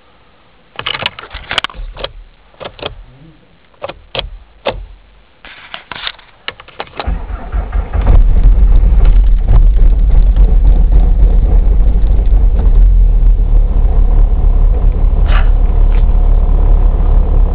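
Volkswagen Golf Mk3 1.9 TDI four-cylinder turbodiesel being cold-started at about −22 °C. A series of clicks and knocks gives way to the starter cranking, and the engine catches about seven seconds in, then runs loud and steady.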